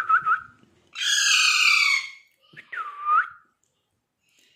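A pet bird calling: a harsh screech about a second long, then a short whistled note that swoops down and back up in pitch.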